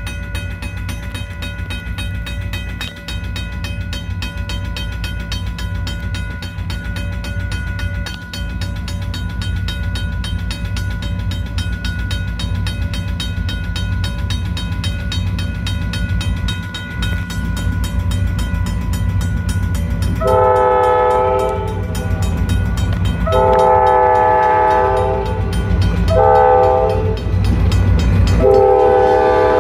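EMD SD40-2 diesel locomotive running with a steady engine drone, then its multi-tone air horn sounds the grade-crossing signal from about twenty seconds in: long, long, short, long, the last blast still going at the end.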